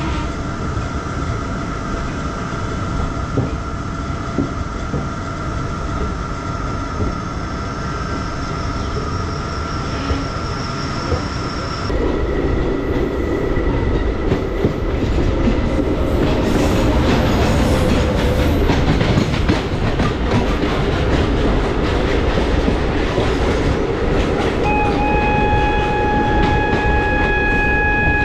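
Passenger train running on the rails, heard from an open coach door as it pulls out of a station. It gets louder about twelve seconds in as a goods train passes on the next track. A long, steady train horn sounds near the end.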